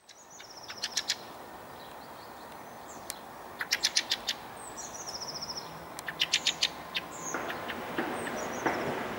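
Small birds chirping in quick groups of sharp high notes with short trills, over a low rumble that builds in the last couple of seconds as the electric locomotive and its freight train draw near.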